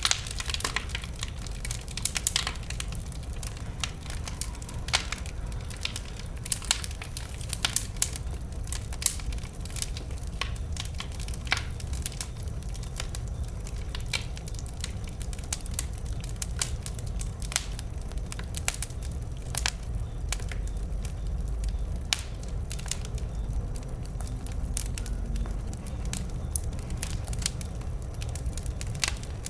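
Wood fire burning, with irregular sharp crackles and pops from the burning wood over a steady low rumble.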